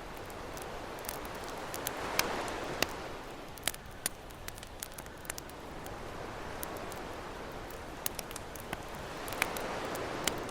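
Campfire crackling, with scattered sharp pops, over ocean waves washing in. The surf swells twice, a couple of seconds in and again near the end.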